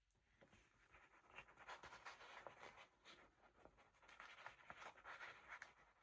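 Faint scratching and rustling of paper being handled and rubbed, with many small ticks.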